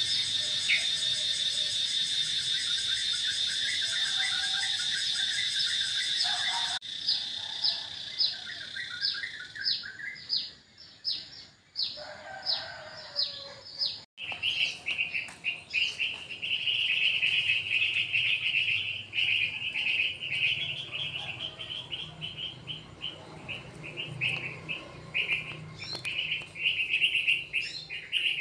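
Birds chirping and calling: first a steady high chirping, then a run of quick, repeated down-sweeping calls, then continuous high warbling. The sound changes abruptly about seven and fourteen seconds in.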